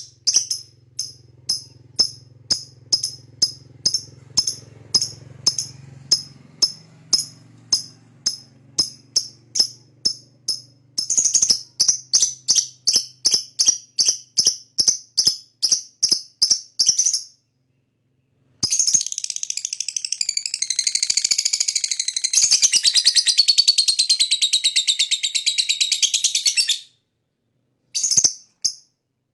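Lovebird calling: a long series of sharp, high chirps at about two or three a second that speeds up, then after a brief cut-off a long, continuous chattering trill of about eight seconds, the lovebird's 'ngekek' song, followed by a couple of single chirps near the end.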